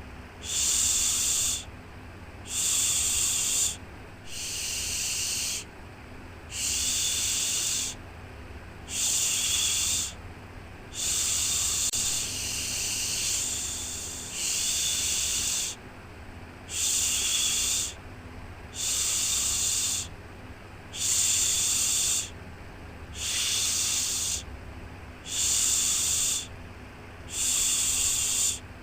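Rhythmic shushing: a 'shhh' repeated about once every two seconds, each lasting a little over a second, with a longer, softer one about halfway through. A faint steady low noise runs underneath.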